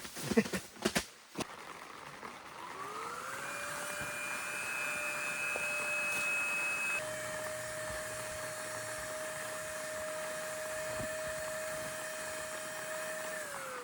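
Small electric air pump inflating an inflatable couch: after a few handling knocks, the motor spins up about two and a half seconds in and runs with a steady whine. Its pitch steps slightly higher about halfway through, and it winds down near the end.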